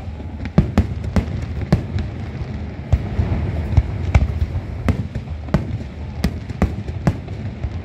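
Fireworks display: a rapid, irregular series of sharp bangs, about two or three a second, over a low rumble.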